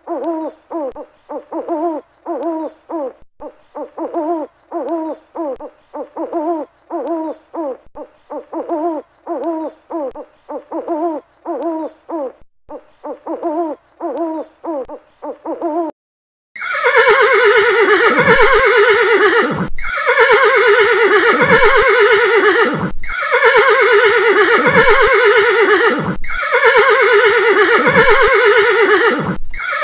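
An owl hooting, short hoots repeated in quick succession, for about the first half. Then a horse whinnying loudly, each neigh falling in pitch and repeated about every three seconds.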